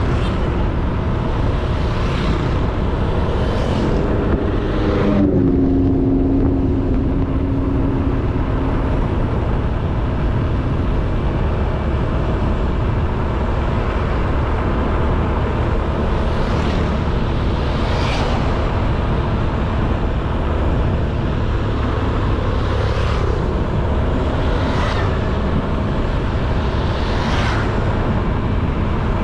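Honda Beat 110cc single-cylinder scooter running on the road, with steady wind and road noise on the helmet-mounted camera. The engine note steps up about five seconds in and holds for a few seconds.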